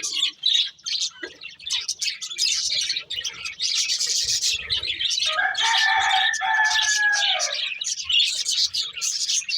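Budgerigars chirping and chattering in rapid, high-pitched bursts. About halfway through, a lower, drawn-out call lasts a couple of seconds and drops in pitch at its end.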